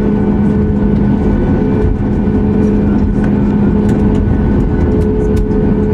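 Cabin noise inside a Boeing 737 MAX 8-200: its CFM LEAP-1B turbofans drone steadily with a held hum and a low rumble, and faint rattles and ticks from cabin fittings scattered through it.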